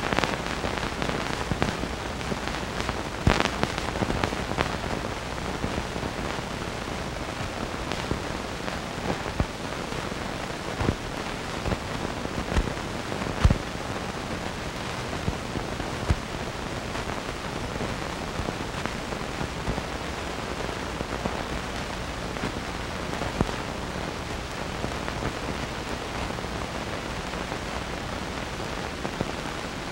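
Steady hiss with scattered crackles and pops, the surface noise of an old film soundtrack.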